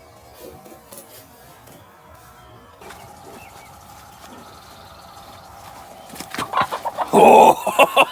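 Laying hen clucking loudly and rapidly from about six seconds in, with one harsh squawk a little after seven seconds in: an agitated hen that is being handled.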